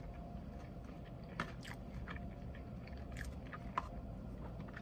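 Close-up chewing of soft food, with a few short, wet mouth clicks, over a steady low hum.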